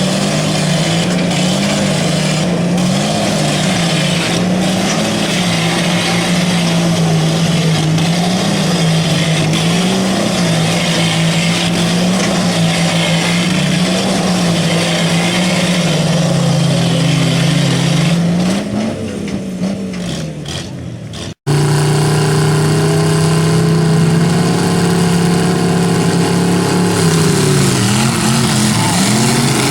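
Truck engines held at high revs under heavy load during a tug-of-war pull, the pitch wavering up and down as the throttle is worked. About two-thirds of the way through the sound fades, then cuts off abruptly and comes back just as loud, with the engines again at high revs.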